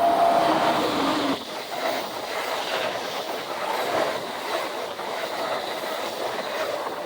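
Amtrak train passing close by, a loud steady rush of wheels on rail with a clickety-clack. A steady tone in the noise falls away about a second in while the train keeps going by.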